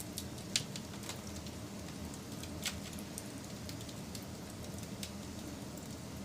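Wood fire crackling: irregular sharp pops and snaps, two louder ones about half a second and two and a half seconds in, over a steady low rumble of the flames.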